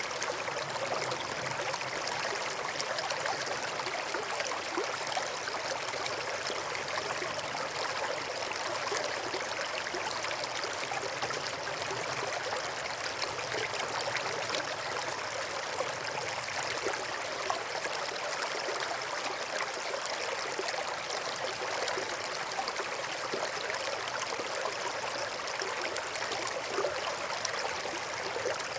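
A small stream flowing and trickling steadily, with no pauses or breaks.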